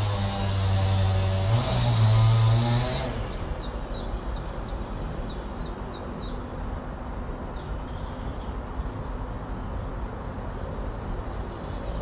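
A low, steady pitched hum with overtones fills the first three seconds and cuts off abruptly. Then outdoor ambience: a small bird sings a quick run of about ten high descending chirps, roughly three a second, followed by a faint, thin, steady high tone.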